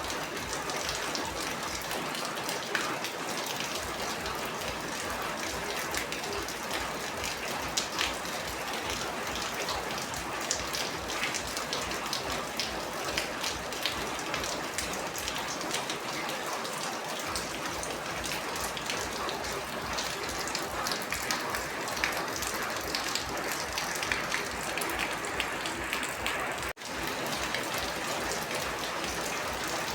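Steady rain falling on a surface, a dense even patter with sharper single drop hits standing out, and a momentary gap about 27 seconds in.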